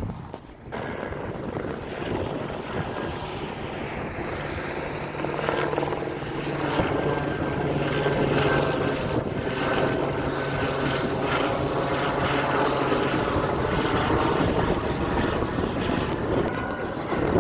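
A sheriff's helicopter flying overhead, its rotor and engine running steadily, a little louder from about five seconds in.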